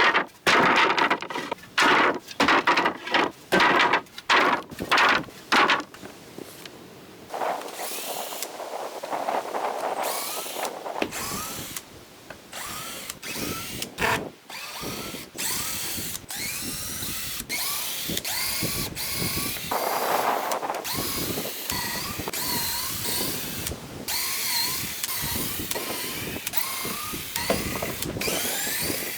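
Cordless power drill-driver backing screws out of wood. Short loud bursts, about two a second, for the first six seconds, then longer, steadier runs with repeated high squeaks.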